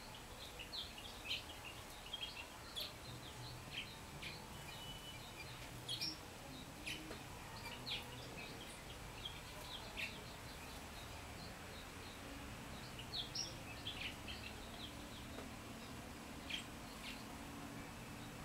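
Small wild birds chirping: short, irregular calls scattered throughout, over a steady low background hum.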